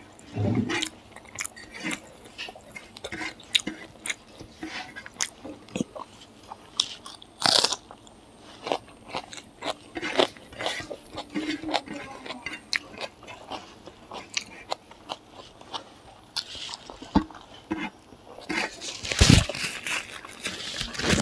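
Close-miked chewing of fried pork and rice: a steady run of short crunching clicks and wet mouth sounds, with a louder crunch about seven seconds in and a louder burst near the end.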